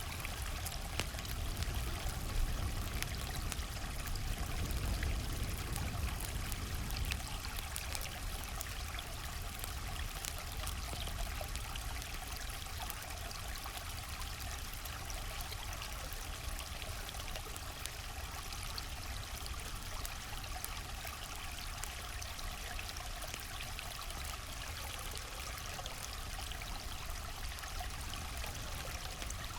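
River water flowing and trickling steadily, a continuous rushing with a low rumble underneath and fine splashing ticks.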